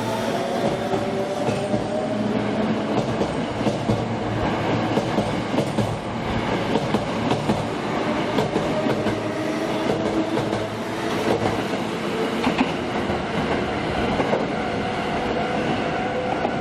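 Electric commuter train running along the platform, its motor whine climbing slowly in pitch as it gathers speed and its wheels clattering over the rail joints.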